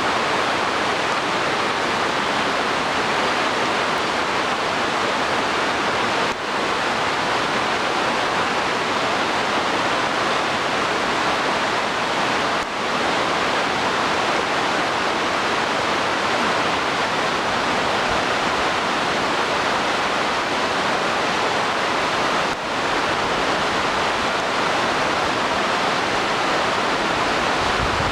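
Waterfall running with a steady, dense rush of falling water, briefly dipping three times.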